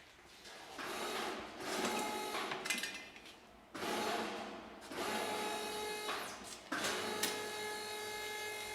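Handheld power tool running in three bursts of two to three seconds each, its motor whining steadily through each run.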